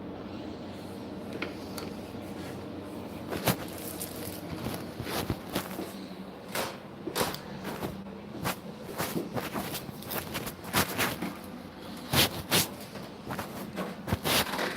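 Irregular sharp clicks and knocks, more and more frequent after the first few seconds, over a steady low hum.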